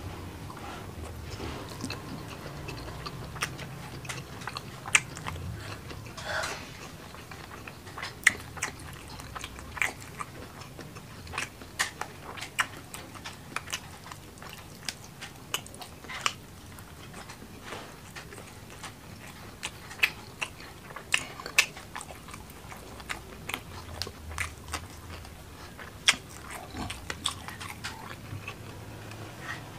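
Close-miked chewing of a mouthful of rice and fried fish, eaten by hand, with many sharp, wet mouth clicks and smacks at an irregular pace of one to three a second.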